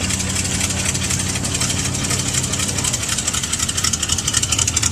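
Car engine idling steadily, its low hum fading about three seconds in.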